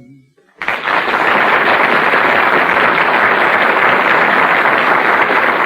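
Studio audience applauding, starting about half a second in and holding steady, on an old, heavily compressed radio broadcast recording.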